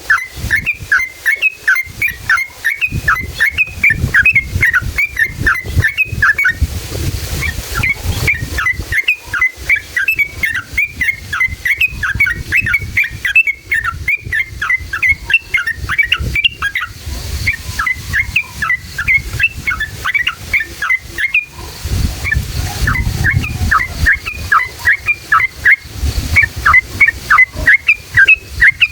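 Yellow-vented bulbul (trucukan) singing long, fast runs of repeated chirping notes, about five a second, broken by a few short pauses, over a low background rumble.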